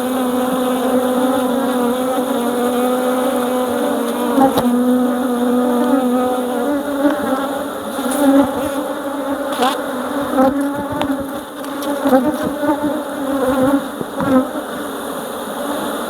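Honeybees buzzing in numbers around the hives: a loud, steady, low hum with a slight waver, and a few scattered clicks and knocks in the middle.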